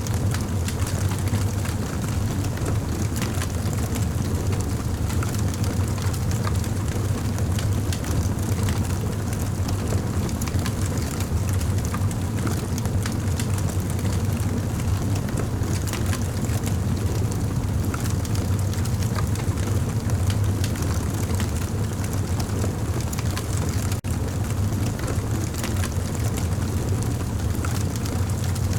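Campfire burning: a steady low roar of flames with frequent small crackles and pops from the burning wood.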